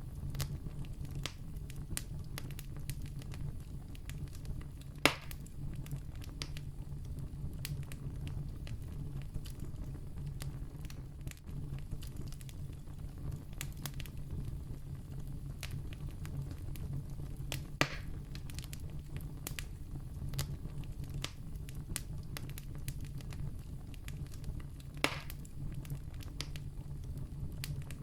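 Campfire burning with a steady low rumble and frequent small crackles, and three louder pops: about five seconds in, around eighteen seconds, and near the end.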